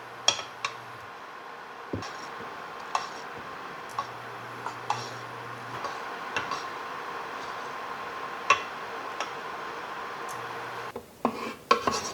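Kitchen dishes and utensils clinking and tapping, about one knock a second, over a steady background hum, with a quick cluster of clatter near the end.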